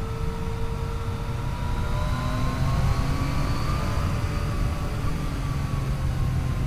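Yamaha FJ-09's inline three-cylinder engine running under way, its pitch rising from about two seconds in as it accelerates, then easing off a little, over a steady low rumble.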